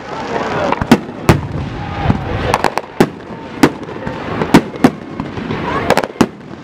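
Aerial firework shells bursting overhead: an irregular run of about ten sharp bangs, some in quick pairs, over a steady background of crackle and rumble.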